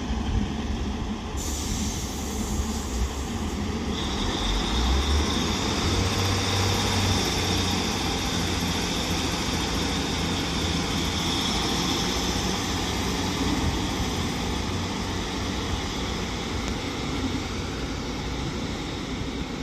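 Coupled Northern Class 156 and Class 150 diesel multiple units pulling away under power. Their diesel engines rise in loudness over the first several seconds as they take load, then run steadily as the train moves off.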